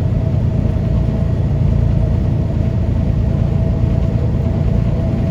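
Steady low rumble of a semi truck cruising at highway speed, heard from inside the cab: engine and road noise, with a faint steady whine above it.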